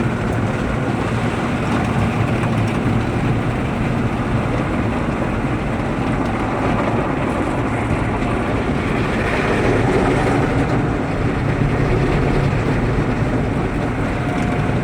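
Automatic car wash machinery running around the car, a steady rushing noise of water spray and equipment heard from inside the car's cabin.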